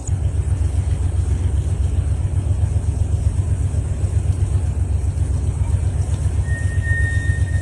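A loud, steady low rumble that starts suddenly, with a faint high steady tone joining about six and a half seconds in.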